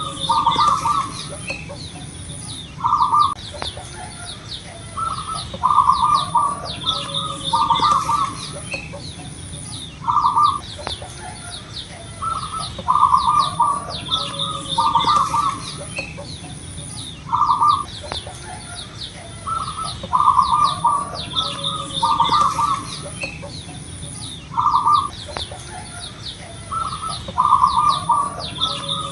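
Zebra dove (perkutut) cooing: short, rapid phrases of staccato coos, repeated about every two to three seconds, with other small birds chirping faintly behind.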